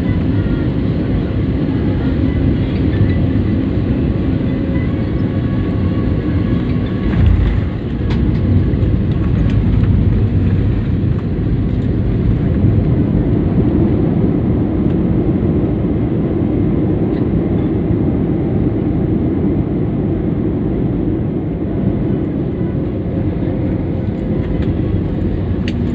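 Steady roar of jet engines and airflow heard inside an airliner's cabin during landing, with a low thump about seven seconds in.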